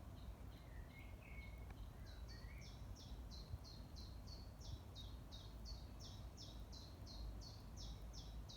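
A songbird singing a long, even run of short, high, down-slurred notes, about three a second, starting about two seconds in after a few lower chirps, over a faint low background rumble.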